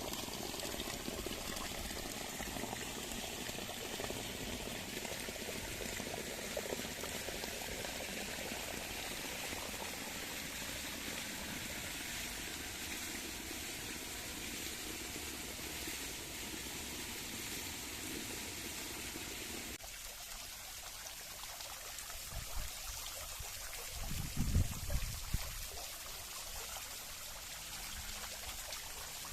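Water running and trickling steadily. About twenty seconds in, the sound changes and loses its deeper part, and a few brief low thumps follow a few seconds later.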